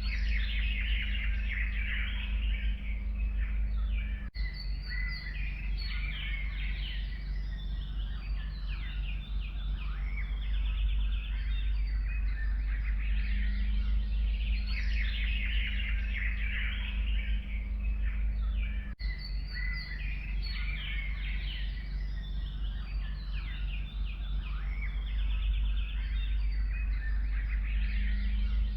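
A dense chorus of forest songbirds, many short chirps and trills overlapping, over a steady low rumble. The sound drops out briefly about four seconds in and again near the nineteen-second mark.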